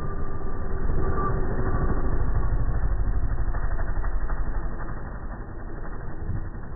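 Air Tractor crop-duster aeroplane engine passing low overhead, a deep rumble that swells about a second in and fades from about four and a half seconds in.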